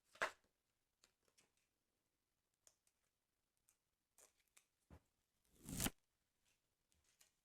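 Paper of a football sticker album handled close to the microphone: soft scattered taps and crinkles, with a short sharp rip at the start and a longer rip that swells for about half a second and cuts off near the end.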